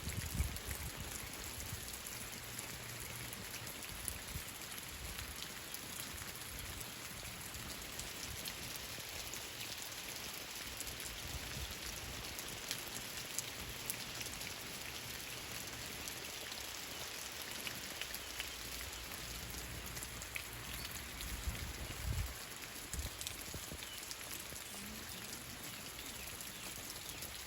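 Steady rain falling, a continuous hiss dotted with many fine ticks of individual drops. Brief low bumps come near the start and about 22 seconds in.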